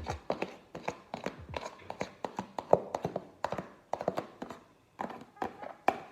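A mixing utensil knocking and scraping against a mixing bowl in quick, irregular taps as whisked egg whites are folded into cake batter.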